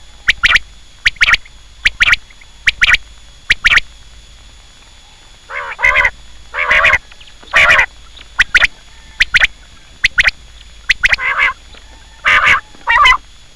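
Quail calling: quick sharp notes, mostly in pairs, for the first few seconds, then after a short pause longer, harsher calls spaced about a second apart.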